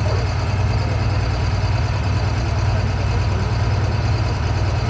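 Ford 8700 farm tractor's diesel engine running loud and steady, with no change in pitch.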